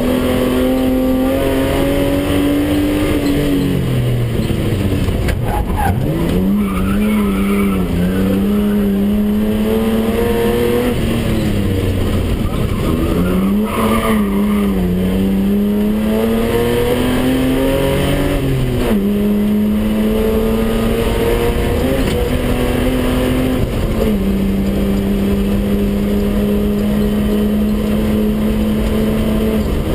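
BMW 320/6 rally car's straight-six engine, heard from inside the cabin, driving hard. The revs climb and drop sharply several times, then hold steady near the end.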